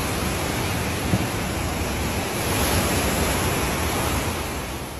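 Hurricane storm noise: a steady, dense rush of wind, easing slightly near the end.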